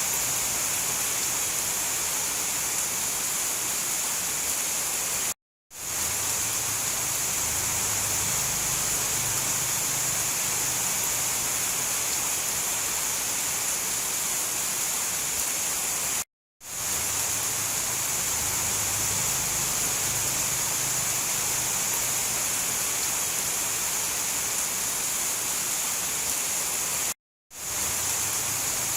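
Steady hiss of heavy rain, a looped recording that drops out to silence for a split second three times, about every eleven seconds, and fades straight back in.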